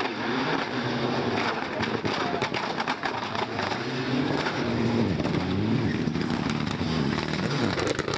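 Rally car engine running hard, its pitch rising and falling as the revs change, with a scatter of sharp clicks.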